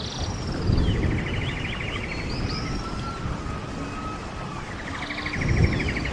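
Steady rush of a running stream with birdsong over it: a bird sings a phrase of high whistled notes and a fast trill twice, about four seconds apart.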